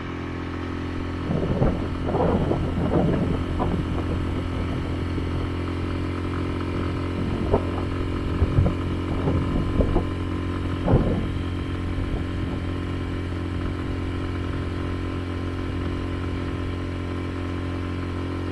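Tohatsu 6 hp four-stroke outboard motor running steadily at full throttle, with irregular short thumps over it, mostly in the first few seconds and again around eight to eleven seconds in.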